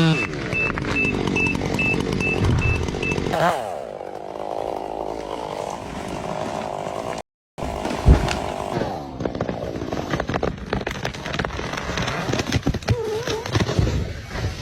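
Chainsaw running and cutting wood, its engine pitch shifting as it works, with a brief dropout about seven seconds in. A series of short, evenly spaced beeps sounds during the first three seconds.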